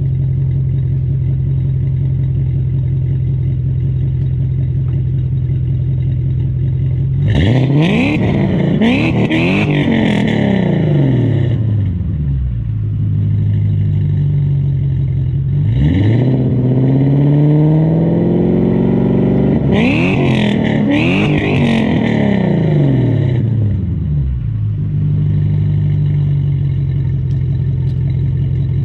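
BMW 540i E39's 4.4-litre V8 at warm idle through a custom catless exhaust with a single Thrush muffler and Akrapovic tips. About seven seconds in it is revved in a run of quick blips that rise and fall, settles back to idle, then is revved again with a slower climb and more blips before dropping back to a steady idle.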